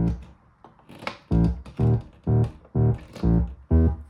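Analogue synthesizer played by an EMS 256 sequencer. A held drone cuts off at the start, then after about a second of near quiet a run of short, plucked-sounding notes begins at about two a second: the sequencer's F output sending pitch and gates.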